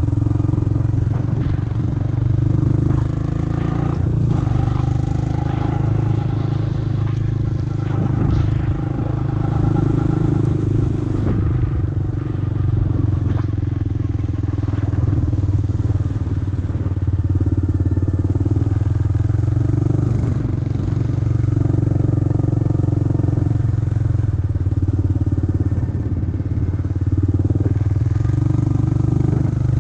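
Four-wheeler ATV engine running steadily, with little change in pitch.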